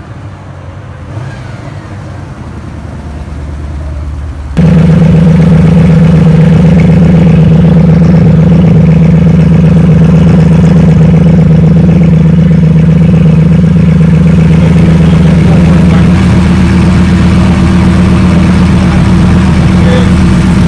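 Car engine running very loud and close, held at a steady speed; it comes in suddenly about four and a half seconds in, after a quieter engine sound that swells gradually.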